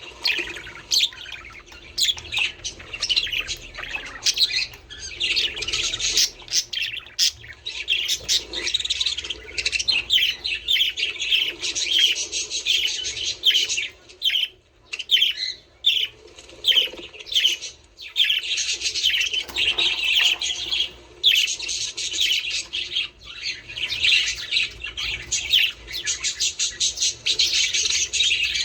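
A flock of budgerigars chattering, with dense overlapping high chirps and squawks and a couple of brief lulls around the middle.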